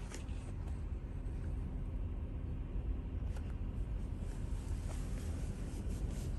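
Steady low rumble of a PDQ Laserwash 360+ touch-free car wash machine running, with a faint hum that fades out near the end and a few light ticks.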